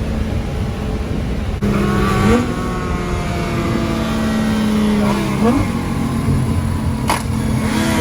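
Car engine running hard at a steady pitch, starting abruptly under load about one and a half seconds in, with two quick rises in pitch along the way.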